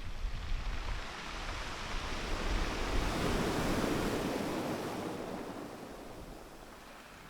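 Waves washing on a shore, one swell building and fading in the middle, with wind rumbling on the microphone.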